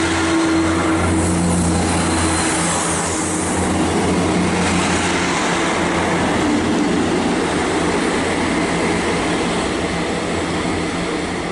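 Class 150 and Class 158 diesel multiple unit pulling out of the station. Its diesel engines drone with steady low tones that are strongest for the first couple of seconds, under a continuous rush of wheel and rail noise as the coaches go by.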